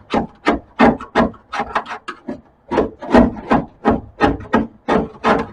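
Small hand paint scraper chipping heated old undercoating off the sheet metal of a car's wheel well in short, quick strokes, about three a second, with a brief pause a little over two seconds in.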